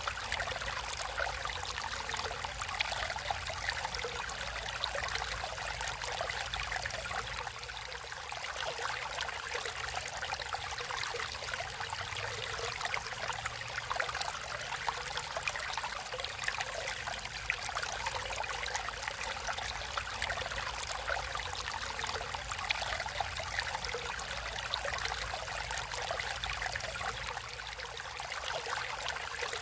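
Stream water flowing and trickling steadily, a continuous bubbling rush.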